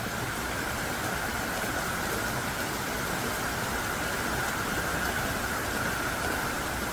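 Heavy, pounding downpour: a steady, even hiss of rain that holds without a break.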